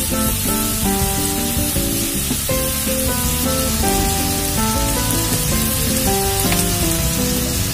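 Pork pieces and onions frying in oil in a wok, a steady sizzle, under background music of short held notes.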